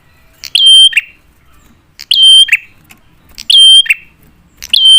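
Prinia (prenjak) calling: four loud, sharp, identical calls about one and a half seconds apart. Each is a high held note that drops at the end.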